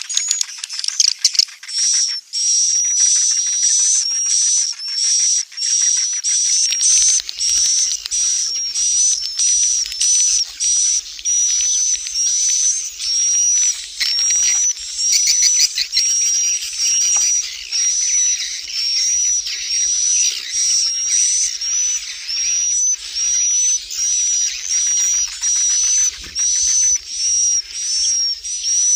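Recorded swiftlet calls: a high, twittering chirp with a rattling trill, repeated at a steady pace a little over once a second. This is the kind of looped call sound played to lure swiftlets to nest.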